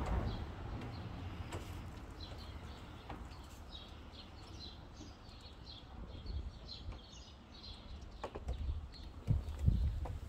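Small birds chirping in quick repeated notes over a steady low rumble, with a few sharp knocks near the end.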